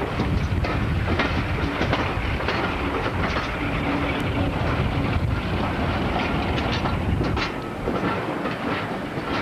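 Train of passenger coaches running, its wheels clicking over rail joints with a steady rumble, heard from an open carriage window.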